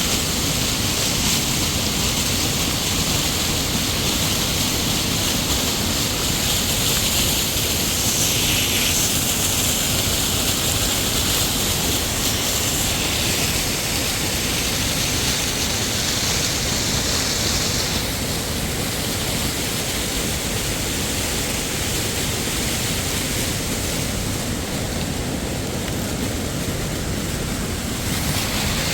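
Steady rushing roar of a tall waterfall, a dense even noise that shifts slightly in level and tone about two-thirds of the way through and again near the end.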